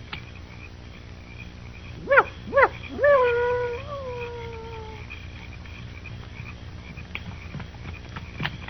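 A canine howl sound effect: two short rising-and-falling yips, then one longer howl that slowly falls in pitch. A run of sharp clicks begins near the end.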